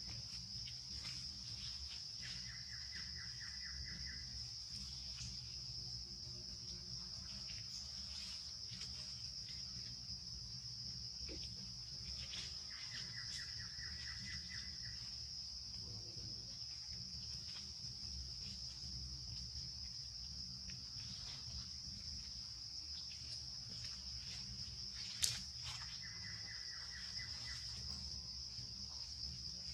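Steady high-pitched drone of crickets or similar insects, with a lower pulsed trill that comes three times, about twelve seconds apart. A single sharp click sounds near the end.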